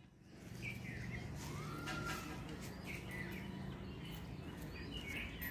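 Birds chirping in short, scattered calls over a steady low rumble, with a few sharp clicks.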